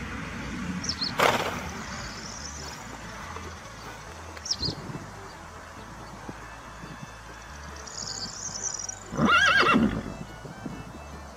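A horse neighing: one loud whinny with a wavering, shaking pitch near the end, after a short sharp burst about a second in and a smaller one a few seconds later.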